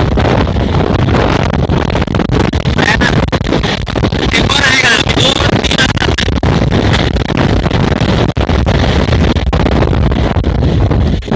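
Moving passenger train running at speed, its low rumble mixed with heavy wind buffeting the phone's microphone held out of the coach window. A harsher, higher rush comes in for a couple of seconds near the middle.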